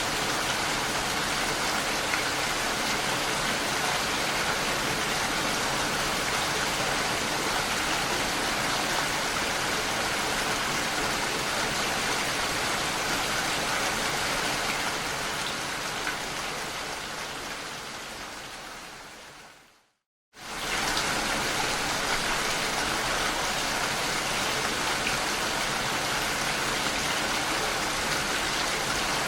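Steady rain falling, an even hiss of many drops. About fifteen seconds in it fades away to a moment of complete silence, then quickly comes back at full level, as a looped recording restarts.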